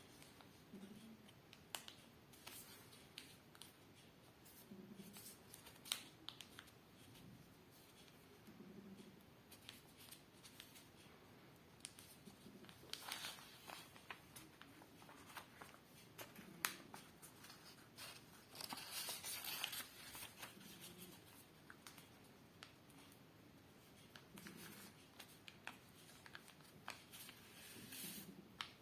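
Faint paper handling as a sheet is folded by hand: small crinkles and taps, with two longer stretches of paper rubbing and creasing about 13 seconds and 19 seconds in.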